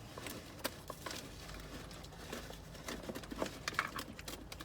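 Rummaging through a car's interior storage: irregular small clicks, taps and rustles as compartments and their contents are handled.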